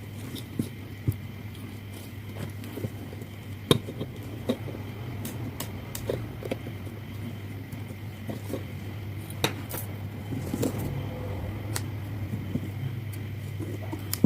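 Scattered light clicks and taps, irregular and a second or so apart, over a steady low hum.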